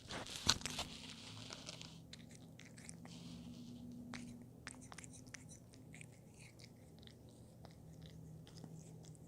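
Cat chewing and biting a treat close to the microphone: a loud knock about half a second in, then a run of small crunchy clicks.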